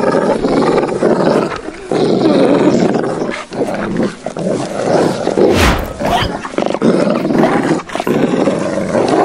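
Deep, rough beast growls in bouts of a second or two with short breaks, and a single thump a little past halfway.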